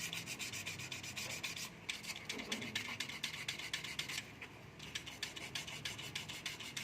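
A brush scrubbing a part in quick back-and-forth strokes, about six a second, with a brief pause a little after four seconds in.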